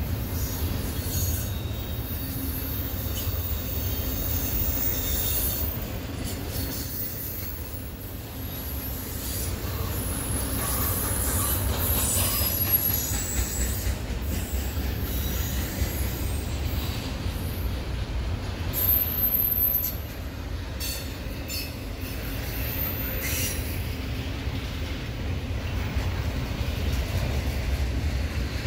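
Double-stack intermodal freight train rolling past: a steady low rumble from the cars and wheels, with scattered high-pitched wheel squeals and short clanks. The loudest squeal comes a little past the middle.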